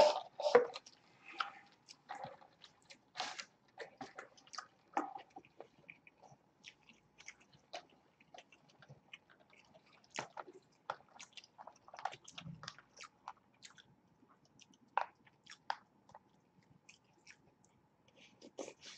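Close-miked mukbang eating sounds: wet chewing, smacking and soft crunches as burger, fries and sundae ice cream are eaten. They come as scattered short clicks, busiest in the first second and with louder bites around ten and fifteen seconds in.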